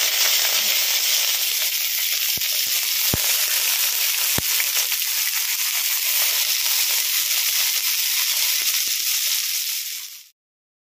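Leaf-wrapped mocha paturi parcels sizzling steadily in hot oil in a kadai, with a few faint clicks. The sound cuts off suddenly near the end.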